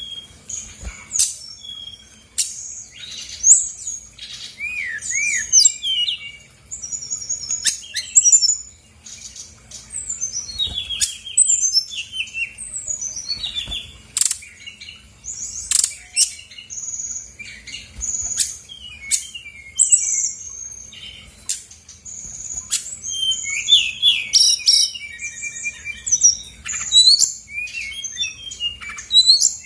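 Brown-chested jungle flycatcher singing nonstop: a fast, varied stream of high whistles, trills and chattering notes, with quick descending runs of notes.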